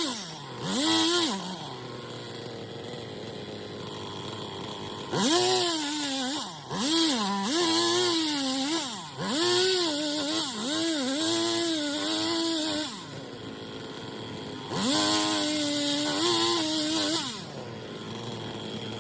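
Two-stroke chainsaw engine revved in repeated bursts, each held at high speed for a second or two before dropping back. Twice it settles to a low idle for a few seconds.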